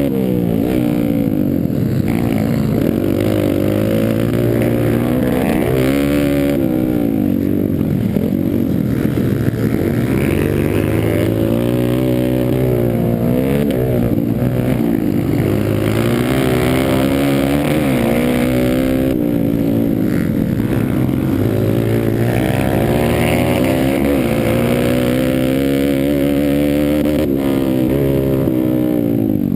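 Pit bike engines racing: the motors rev up and fall back again and again, the pitch rising and dropping every few seconds without a break.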